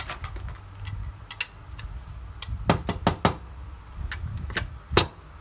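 Small hand tools clicking and tapping on an iPhone XS Max logic board during BGA reballing, with sharp separate taps: three close together in the middle and the loudest one near the end. A low steady hum runs underneath.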